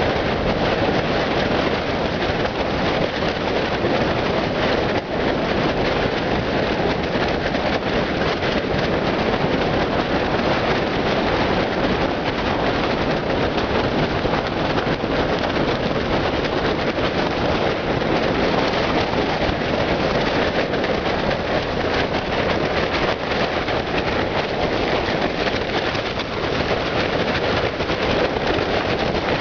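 Blizzard wind buffeting a tent, the fabric flapping and rattling without a break. Loud and steady throughout.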